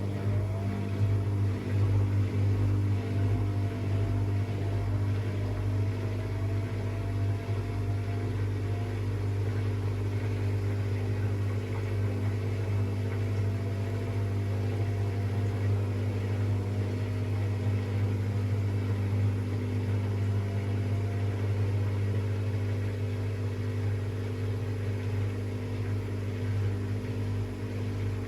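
AEG Lavamat washing machine running: a steady, even motor hum with a faint whine above it.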